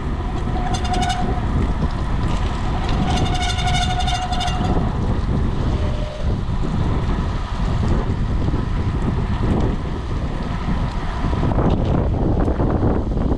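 Wind buffeting the microphone and wet road noise while a bicycle descends at speed. There are two short high squeals, the first about a second in and a longer one around three to four seconds in.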